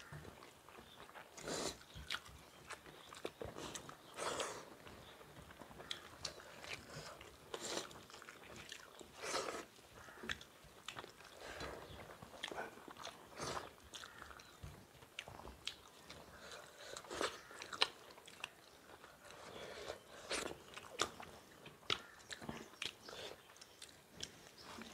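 Close-miked eating sounds of two people eating egg bhurji and rice by hand: chewing and lip-smacking in a steady run of irregular short clicks, with fingers working the food on steel plates.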